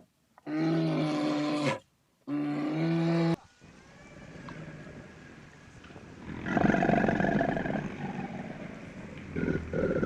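Animal calls: two long, steady-pitched calls, each about a second long. After a break, a rough, rapidly pulsing growl starts about six and a half seconds in.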